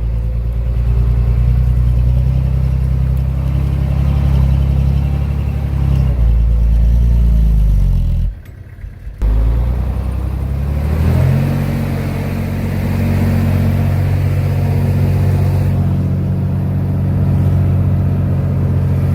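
Komatsu D31P bulldozer's diesel engine running hard. Its pitch falls about halfway through, cuts out for under a second, then comes back and rises again before holding steady.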